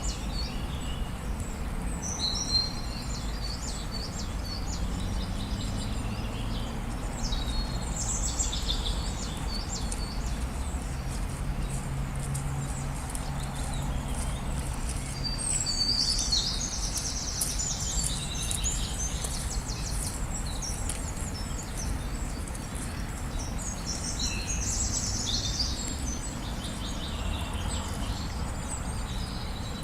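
Songbirds singing and chirping in short phrases that come and go every few seconds, over a steady low background rumble.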